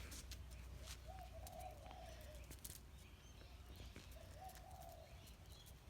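A dove cooing faintly: soft low coos about a second in and again a little after four seconds.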